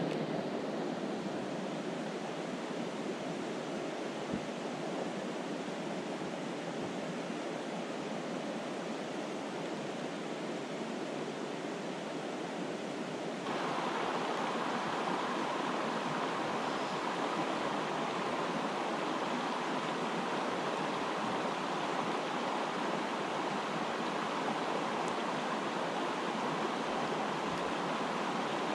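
Rushing water of a fast trout creek running high, a steady rush; about halfway through it jumps abruptly louder and brighter.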